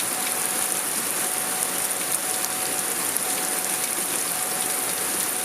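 Steady rain falling, a continuous hiss dotted with many small ticks of drops striking a surface.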